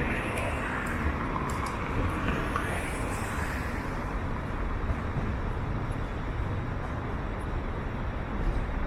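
Steady road traffic on a city street: cars passing with a continuous rumble of engines and tyres.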